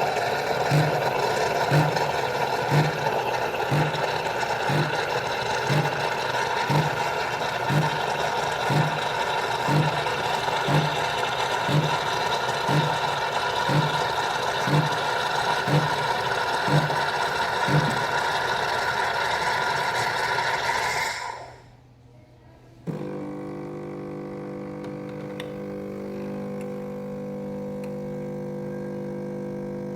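Mini coffee machine running with a steady mechanical noise and a low pulse about once a second, which stops abruptly about 21 seconds in. After a brief quiet, a steadier, quieter hum starts.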